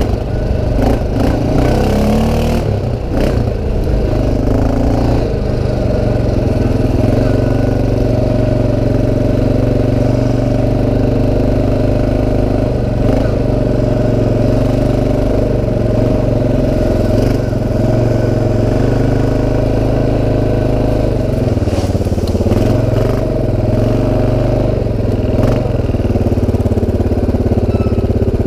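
CFMOTO 500 ATV's single-cylinder engine running under way, its pitch shifting a few times as the throttle changes, with occasional knocks and rattles from the machine.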